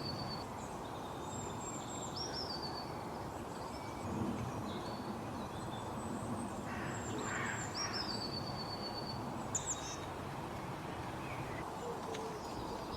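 Small songbirds calling: a high whistled note that drops in pitch, repeated about every five seconds, with shorter high chirps in between, over a steady background hiss.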